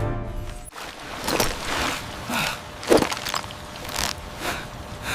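Background music cuts off under a second in, followed by a string of short, irregular noisy hits and scrapes, the sharpest about three seconds in.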